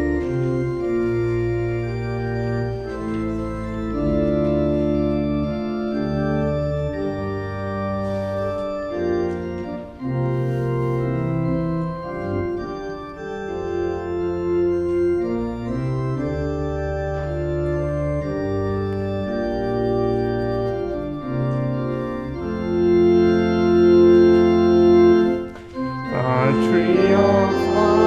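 Organ playing the introduction to a closing hymn in held chords that change every second or so. Near the end, the congregation's voices begin singing the hymn.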